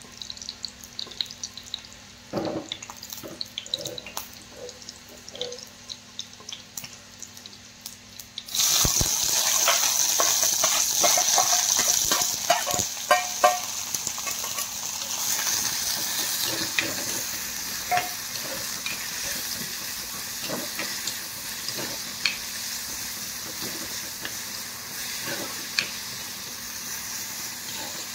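Light clinks and knocks, then about eight seconds in a sudden loud sizzle as food goes into hot oil in a pan. It keeps sizzling steadily, with the clicks and scrapes of stirring, easing off a little toward the end.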